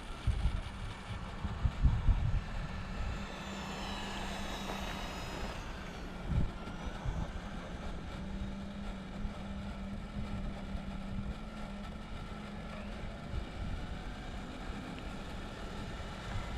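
Electric motor of a Redcat Scout II Gen8 V2 RC crawler whining as it drives, its pitch climbing a few seconds in, over a steady low hum, with scattered thumps from the truck bouncing over the ground.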